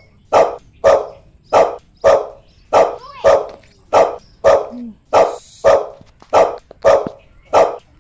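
A dog barking over and over at a steady pace, about one bark every half second or so, each bark loud and short.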